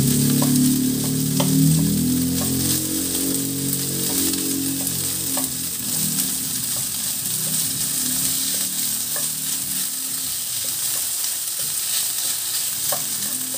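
Ground pork frying with garlic and onion in oil in a nonstick wok, sizzling steadily while a wooden spoon stirs it, tapping and scraping the pan now and then. A low hum comes and goes underneath, strongest in the first few seconds.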